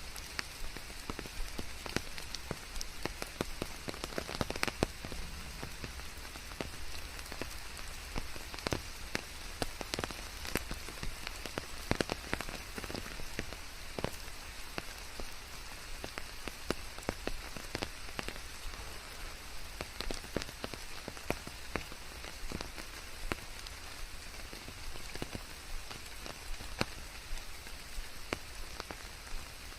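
Steady rain: an even hiss with many sharp, separate drop hits landing at irregular moments throughout.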